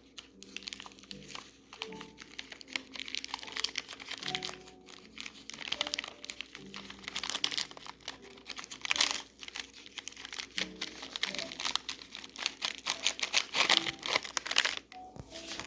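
Plastic Nature Valley granola bar wrapper crinkling in bursts as it is handled and opened, loudest about nine seconds in and again near the end. Soft background music plays underneath.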